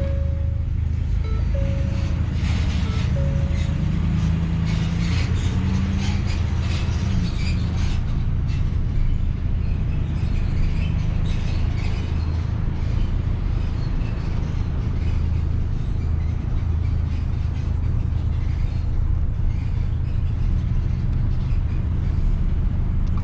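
Steady low rumble of a car or truck being driven, heard from inside the vehicle, with music playing over it.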